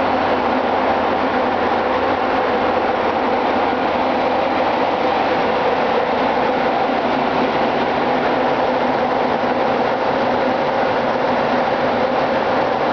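Ship's engine-room machinery running: a loud, steady din that holds even throughout.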